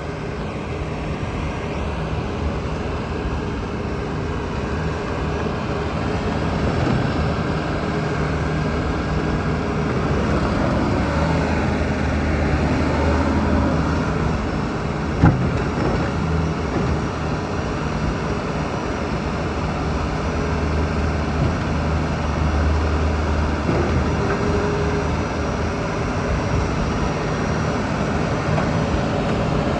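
A Bobcat S590 skid steer loader's 2.4-litre four-cylinder turbo diesel running steadily at work. Its note swells and eases twice as the load comes on and off. One sharp knock comes about halfway through.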